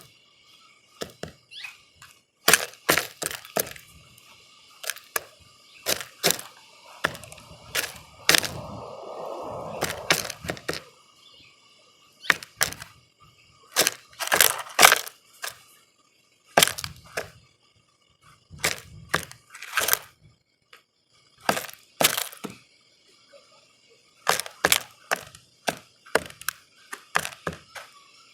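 Birds feeding at a bird feeder: irregular sharp taps and cracks as beaks peck at seed and knock the feeder. Near the middle comes a rustling scrabble lasting a few seconds.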